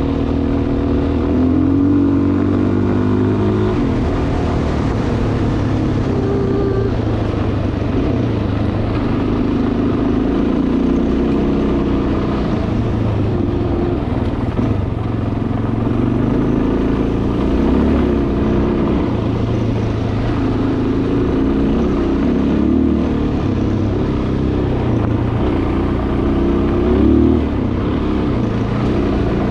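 Dual-sport motorcycle engine running while riding, its pitch rising and falling as the throttle opens and closes, with a brief louder rev near the end.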